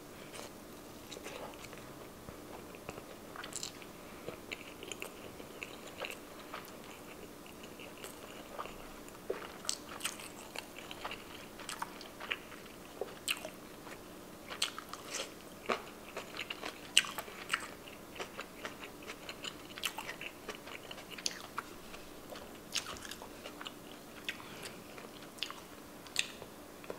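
Close-miked chewing of soft tamago (sweet egg omelette sushi) and pickled ginger: faint, irregular wet mouth clicks and smacks, growing busier about halfway through.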